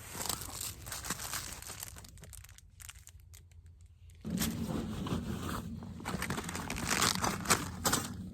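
Irregular crinkling and rustling of something being handled, quieter for a moment and then busier, with a steady low hum joining about four seconds in.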